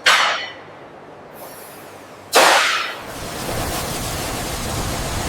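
Two sudden whooshing hisses about two and a half seconds apart, each dying away within about half a second, followed by a steady even hiss.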